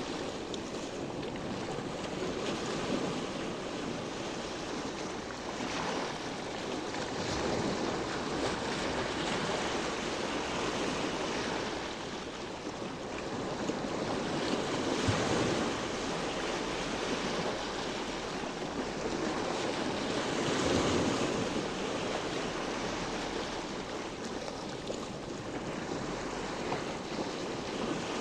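Sea waves washing in and out along the shore, a continuous wash that swells louder and eases off every few seconds.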